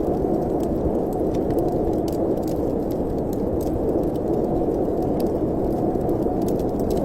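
Steady low rushing of wind with faint, scattered crackles of a wood fire in a fireplace.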